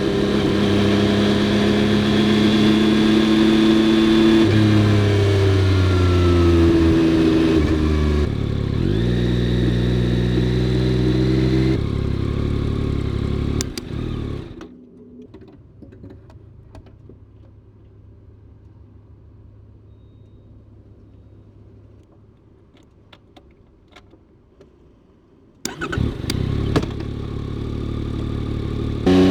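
Yamaha XSR900's inline three-cylinder engine pulling hard, its pitch stepping and gliding through several changes. About fourteen seconds in the throttle closes and it falls to a low, quiet running for about ten seconds, with a few light clicks. Near the end it revs loudly again.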